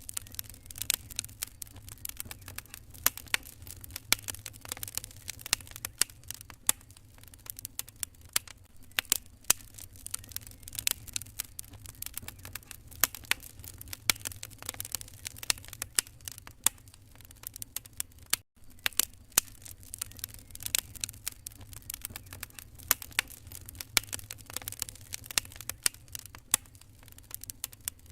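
Wood fire crackling in a fireplace: dense, irregular sharp pops and snaps over a low rumble. It cuts out for an instant about eighteen seconds in.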